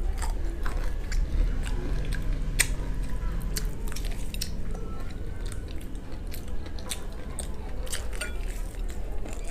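Crispy fried chicken being bitten and chewed: irregular sharp crunches and clicks of the breaded coating, over a steady low hum.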